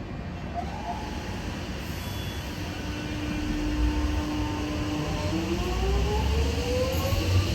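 X'Trapolis electric multiple-unit train pulling away, its traction motors giving a steady whine that starts rising in pitch about two-thirds of the way through as the train gathers speed, over a low rumble that grows louder.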